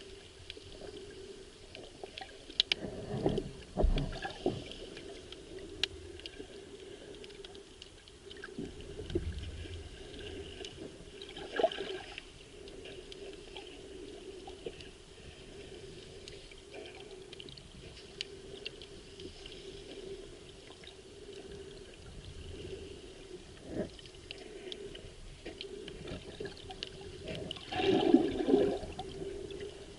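Muffled underwater sound of the sea around a submerged camera: steady sloshing and gurgling water with scattered clicks, and louder surges and knocks about three seconds in, near twelve seconds and near the end.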